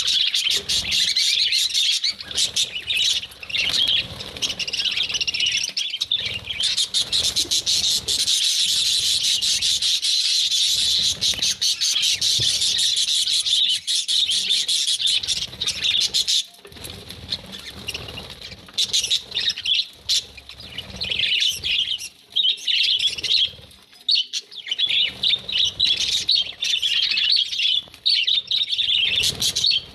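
A group of budgerigars chirping and chattering, many high calls overlapping without a break in the first half, then coming in shorter, broken runs for the rest.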